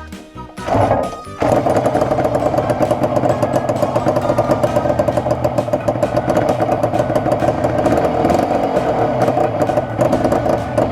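Yamaha TZR250 1KT two-stroke twin engine, converted to air cooling, catching about a second and a half in after a brief burst, then running steadily on its first test run.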